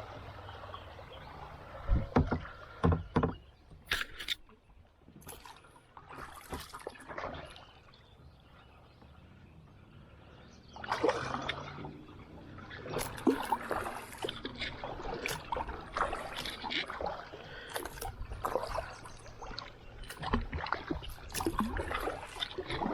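Kayak paddles dipping and splashing in creek water in irregular strokes, with a few sharp knocks about two seconds in, a quieter stretch in the middle, and busier paddling from about halfway on.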